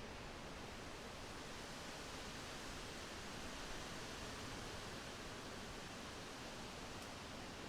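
Wind blowing through forest trees, a steady rustling hiss of leaves with an even level and no distinct gusts.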